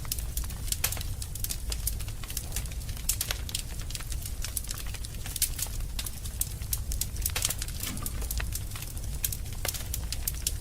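Wood fire burning in a fireplace: irregular crackles and snaps from the burning logs over a steady low rumble of the flames.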